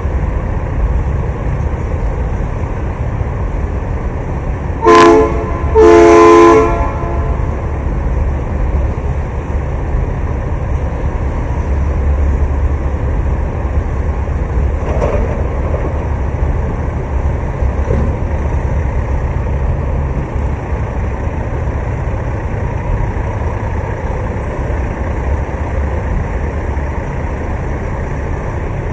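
Two loud blasts of a truck's air horn, a short one about five seconds in and a longer one a second later, over a steady low rumble.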